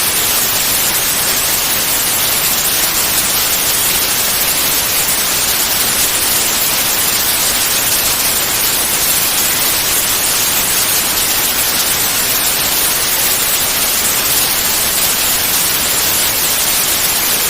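Continuous white noise, steady and even throughout, with a hiss weighted toward the high end.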